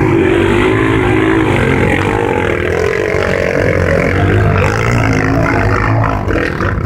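Several small Chinese-made motocross bike engines running and revving together, their pitch wavering up and down.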